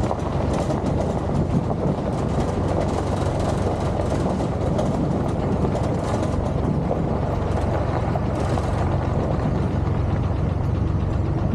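A vehicle driving along a rough road, with a steady rumble and scattered rattling.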